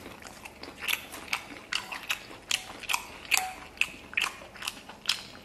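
Close-miked chewing of a mouthful of noodles and rice: a string of sharp, irregular wet mouth clicks and smacks.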